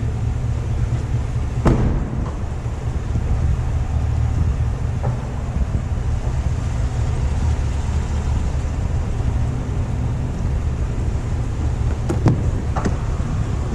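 Steady low rumble of the Chevrolet Tahoe High Country idling, with a sharp click about two seconds in and two more near the end.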